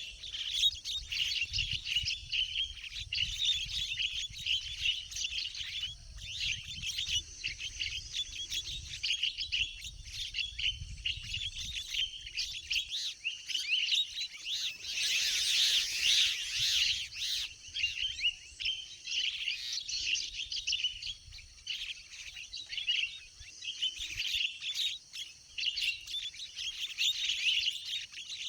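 Many birds chirping and calling without a break, with a louder, denser flurry about halfway through. A low rumble runs underneath for the first half.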